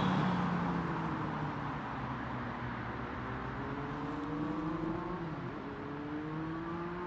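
A vehicle accelerating at a level crossing: a low hum with pitched tones that climb slowly, fall back about halfway through and climb again.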